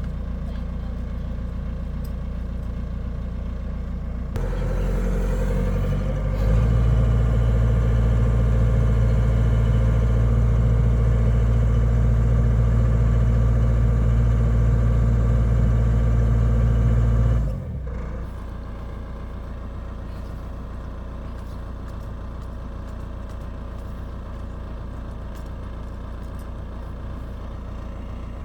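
Heavy diesel engine running steadily, stepping up in speed about four seconds in and again about six seconds in. It holds there, loud, for about eleven seconds, then drops back to a lower idle about eighteen seconds in.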